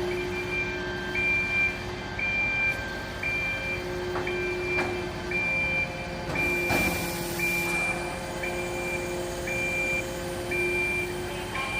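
A fire-service truck's reversing alarm beeping: one high tone repeating about every three quarters of a second, over a steady engine hum. A short hiss comes about seven seconds in.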